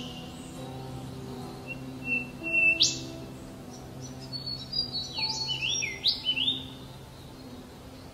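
Songbirds chirping in short bursts, with quick rising and falling high whistles, in two clusters, about two and a half seconds in and again around five to six and a half seconds in. Soft background music with held low notes runs beneath.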